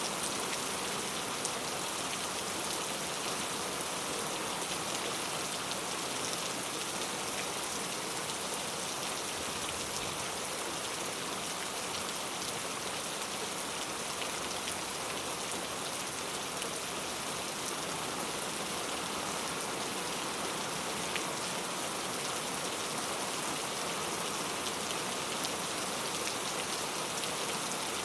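Heavy rain falling steadily on street surfaces, a constant hiss of many drops with fine pattering throughout.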